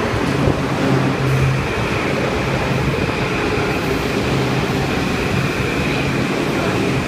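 Metro-North M8 electric multiple-unit train pulling into the station and running past close by: a steady rumble of wheels on rails with a steady high whine and a low hum that comes and goes.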